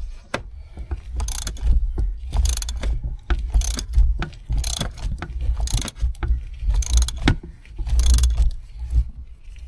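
Ratchet wrench with a 15/16 socket clicking in repeated strokes, about one a second, as it loosens the cartridge oil filter housing cap.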